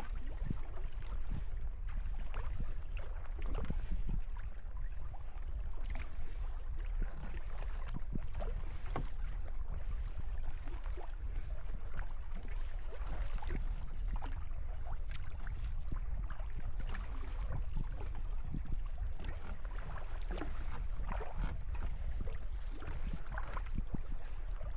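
Water splashing and lapping around a kayak, in many small irregular splashes, over a steady low rumble of wind on the microphone.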